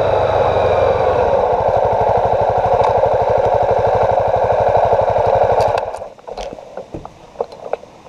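2015 Honda CB300F's single-cylinder engine idling with an even pulse, then cutting off suddenly about six seconds in. A few light clicks and jingles follow.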